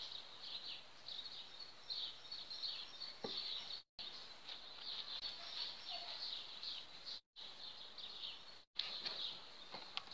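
Small birds chirping in the background, a steady run of many short high chirps, with three brief complete dropouts in the sound.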